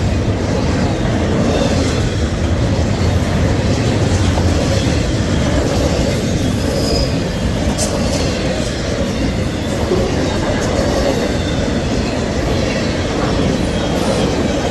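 CSX intermodal freight train's cars rolling past at steady speed: a continuous rumble of steel wheels on rail, with a few faint clicks and a brief high wheel squeal near the middle.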